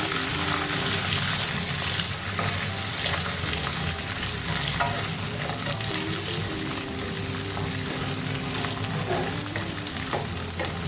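Onions, curry leaves and dried red chillies sizzling in hot oil in a kadai, a steady frying hiss, with a spoon stirring and knocking against the pan now and then as they are sautéed.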